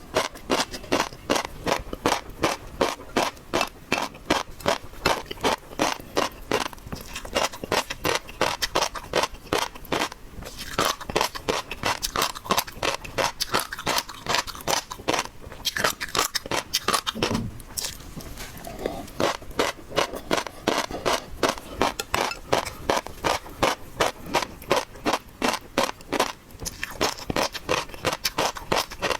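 A person chewing seafood, with wet, crackly clicks that come several times a second in a steady rhythm and pause briefly twice.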